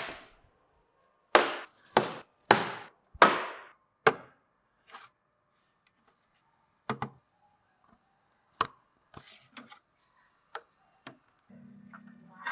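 Sharp knocks of wood being struck: six loud blows roughly half a second apart in the first four seconds, then lighter, scattered taps.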